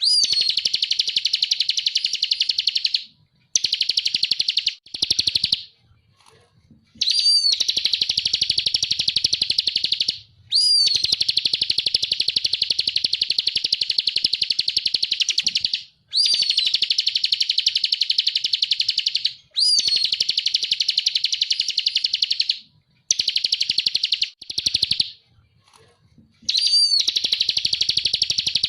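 Bar-winged prinia (ciblek) singing: a string of long, very fast trills, some lasting several seconds, separated by brief pauses. Most phrases open with a short note that sweeps up and then down.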